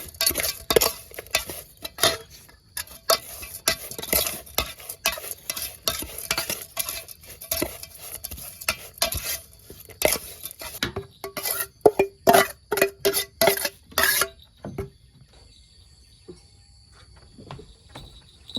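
Spoon stirring and scraping in a bowl, mixing a live-shrimp salad, with rapid irregular clinks. Near the end come a few harder strikes that ring briefly, and the stirring stops about fourteen seconds in.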